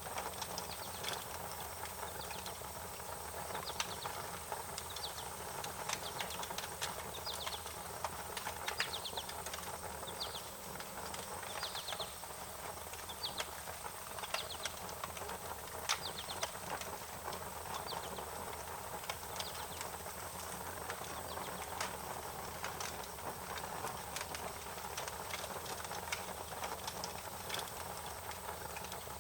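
Wood fire crackling, with irregular sharp pops and snaps over a steady hiss. Short high chirps come and go through the first half.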